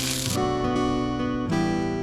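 Background music of acoustic guitar playing plucked chords that change every half second or so. A hiss under it cuts off shortly after the start.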